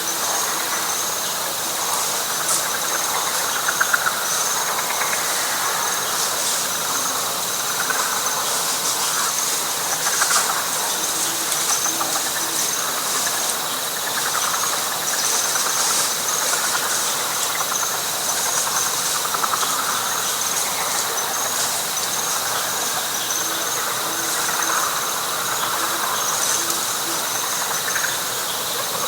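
Night swamp chorus of frogs and insects. A steady high trill holds under a faster pulsing trill above it, while lower frog calls swell in and out every few seconds.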